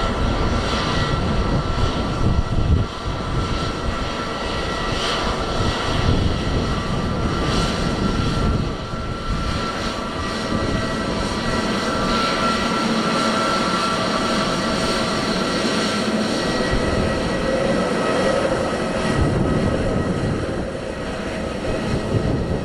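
Airbus A320neo's Pratt & Whitney PW1100G geared turbofans running at idle power while the jet lines up for takeoff, giving a steady whine. Gusty wind buffets the microphone with uneven low rumbles.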